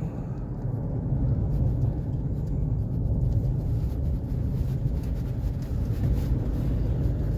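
Steady low rumble of engine and road noise heard from inside a Ford Ranger pickup's cab while it drives along.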